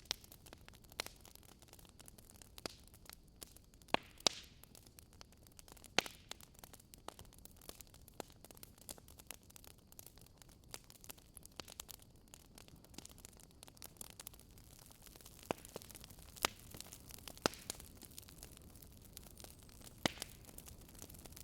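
Wood fire in a fireplace crackling, with irregular sharp pops and snaps, a few louder than the rest, over a faint low hiss.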